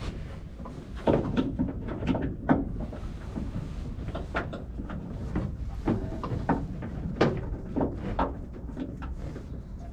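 Irregular clicks, knocks and rattles of hands working a stubborn electrical plug into its socket on a boat, over a low steady rumble.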